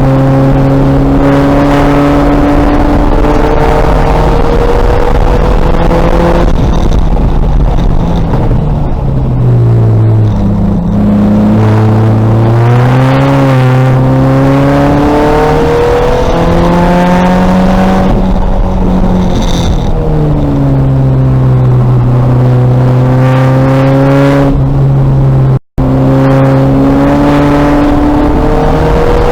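2000 VW Golf race car's engine pulling hard on track, its pitch climbing through the revs and dropping at each gear change, with dips and slower stretches around 10 s and 20 s where it comes off the throttle for corners. The sound cuts out for an instant about three-quarters of the way through.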